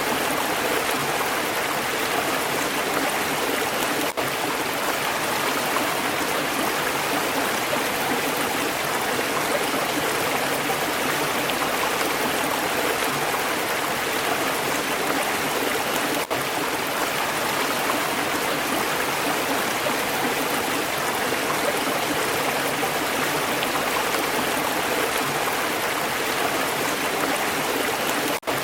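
Stream water flowing steadily in a dense, even rush, with three momentary dips in level about twelve seconds apart.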